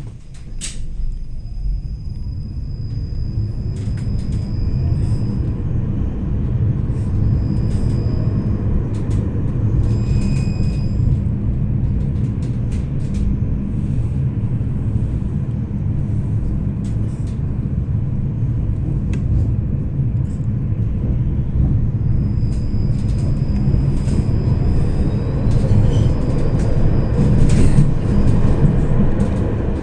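Tram running along the rails, heard from the passenger cabin: a steady low rumble that grows slowly louder, with scattered clicks and a thin high tone that comes and goes several times.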